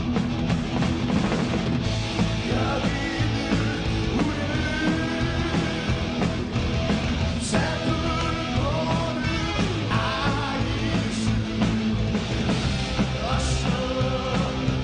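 Live hard rock band playing, with loud distorted guitars, bass and drums under a male lead vocal that comes in about two seconds in.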